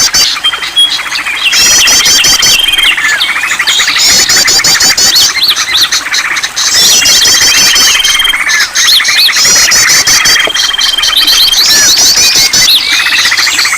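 A dense mix of many songbirds' chirps, rapid trills and a held whistle, repeating in a loop every two to three seconds: a bird-lure recording made to set caged songbirds singing.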